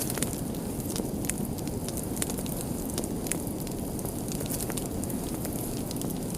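Wood fire burning steadily with a low rumble and frequent sharp, irregular crackles and pops.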